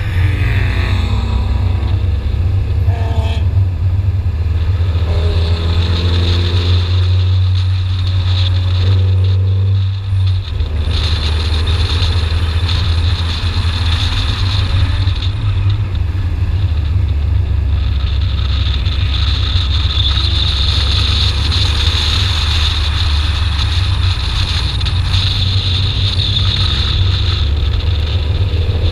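BMW E30 318iS's four-cylinder engine being driven hard, rising in pitch as it pulls up through the revs several times, with a short lift just before the middle. Heavy wind rumble on an outside, hood-mounted microphone runs underneath it all.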